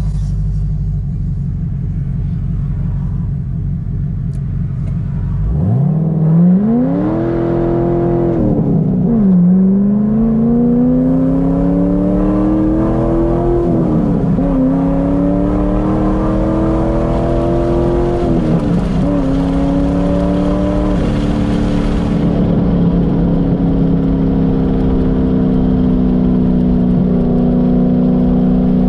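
Modified 2006 Corvette Z06's 7.0-litre LS7 V8, heard from inside the cabin. It idles for about five seconds, then pulls away, the engine note climbing through three gear changes before settling into a steady cruise.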